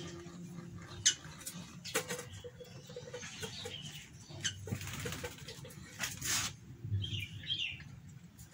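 Birds fluttering and rustling in a wire cage, with scattered sharp clicks and a short chirp about seven seconds in.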